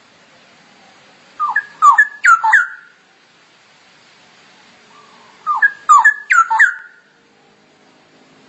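Straw-headed bulbul (cucak rowo) singing: two short phrases of loud, rich, bubbling whistled notes, each about a second and a half long, a few seconds apart.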